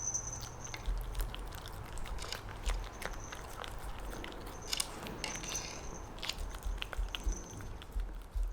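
A dog biting and chewing red-fleshed dragon fruit: irregular wet clicks and smacks of its mouth working the fruit.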